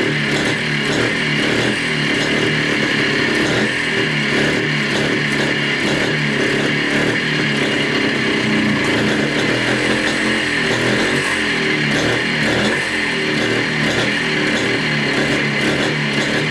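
Montesa Cota 247's two-stroke single-cylinder engine running continuously, its pitch rising and falling slightly. It has just been restarted after 42 years laid up, and its idle has not yet been set.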